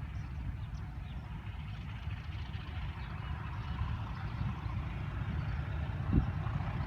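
PHA-20 class diesel-electric locomotive's engine running with a steady low rumble, growing slightly louder, with a short thump about six seconds in.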